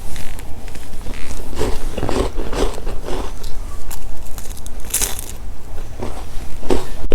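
Close-up biting and chewing of crunchy chocolate snacks, irregular crisp crunches every half second or so, over a steady low hum.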